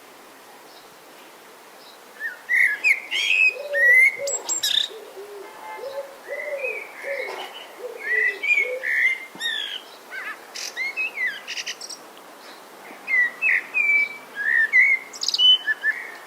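Songbirds singing, with a rapid mix of short chirps and whistled notes starting about two seconds in, over a steady background hiss. Lower, softer whistled notes join for a few seconds partway through.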